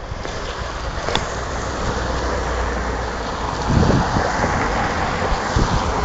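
Longboard wheels rolling on wet pavement, a steady hissing rumble with wind buffeting the microphone. There is a single sharp click about a second in.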